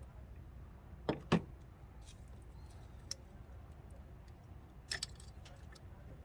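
A few short knocks and clicks from tools and parts being handled: two about a second in, a light click near three seconds, and two more near five seconds, over a low steady rumble.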